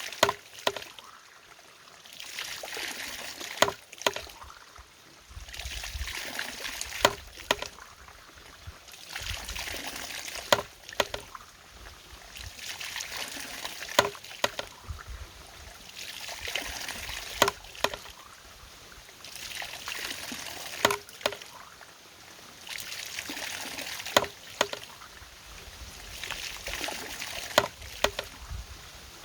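Water-powered mechanism working in a steady cycle: water gushes and splashes for about two seconds, then a sharp knock, repeating about every three and a half seconds.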